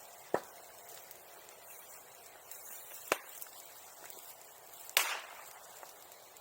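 A bonfire popping: three sharp cracks, a few seconds apart, the last the loudest.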